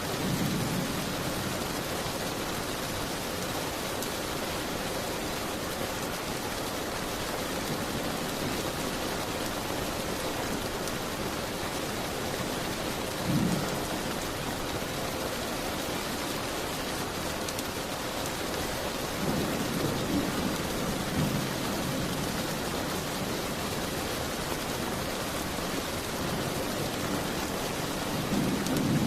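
Steady rain falling, a continuous even hiss. A few brief low rumbles rise out of it: once at the start, once about halfway, several times around two-thirds of the way in, and again at the end.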